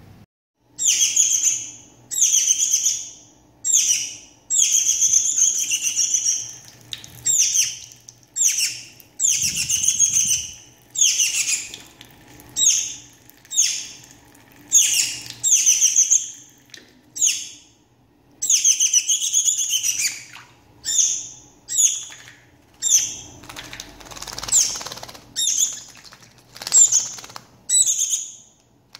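Shiny cowbird chick calling over and over: loud, high-pitched calls about one a second, each under a second long with short breaks between them.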